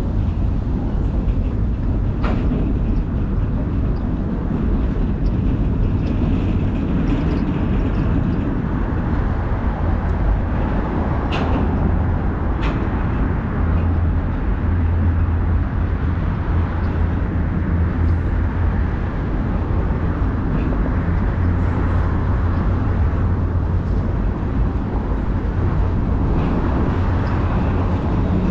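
A train running steadily: a continuous low rumble with a droning hum, broken by a few short, sharp clicks now and then.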